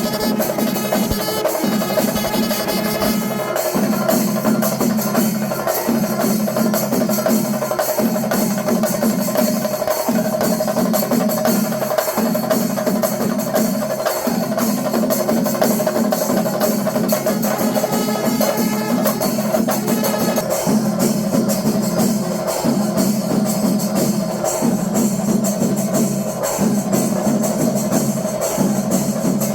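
Kerala temple percussion ensemble, chenda melam style, playing dense, continuous drumming with many rapid strikes over steady held tones.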